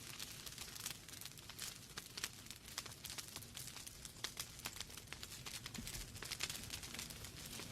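Wood fire burning in a fireplace: logs crackling with irregular sharp pops and snaps over a steady low hiss.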